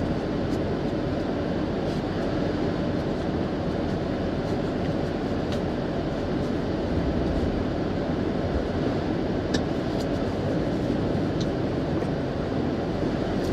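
Steady engine and road rumble inside the cabin of a Ford Expedition SUV, with a few faint ticks in the second half.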